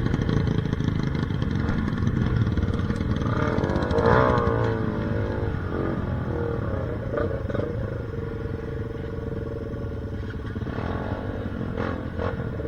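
Off-road trail motorcycle engines running, with a brief rise and fall in engine pitch about four seconds in.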